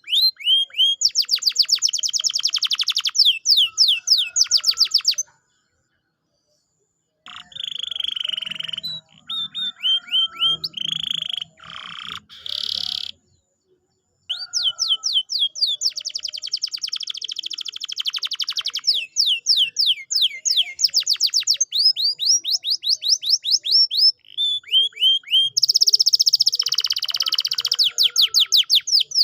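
Domestic canary singing: fast trills of repeated down-slurred whistled notes, with buzzier rolling phrases in the middle and two short pauses. It is a lure song meant to set other canaries singing.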